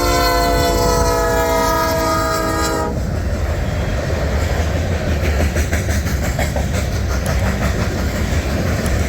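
Diesel locomotive air horn sounding a multi-note chord that dips slightly in pitch and cuts off about three seconds in, then the loud rumble of the Norfolk Southern coal train rolling past, with wheels clacking over the rail joints.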